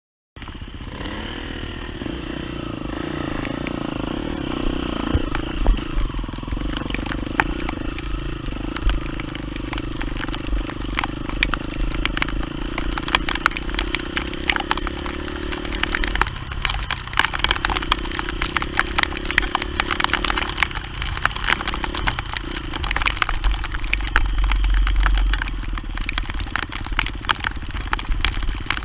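Off-road dirt bike engine running steadily while riding a trail, its note easing off briefly twice. Many small clicks and knocks come from the bike over rough ground, with a low wind rumble.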